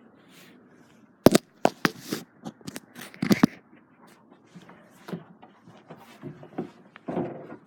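Irregular sharp knocks, clicks and rustling scrapes close to the microphone, loudest about a second in and again near three seconds: the handling noise of a phone camera being moved and gripped.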